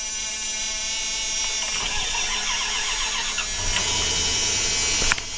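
1997 Dodge Ram 1500's starter motor cranking the engine for about three and a half seconds in a cold start at about 10°F after a month unused. The engine then catches and settles into a steady run.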